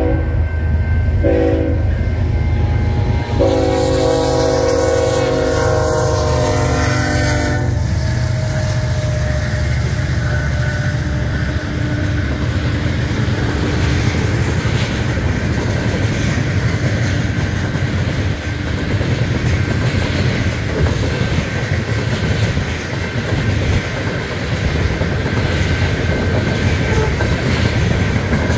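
Grain train's locomotive horn sounding long blasts for the crossing, the last ending about eight seconds in, followed by the steady rumble and rhythmic clickety-clack of covered hopper cars rolling past.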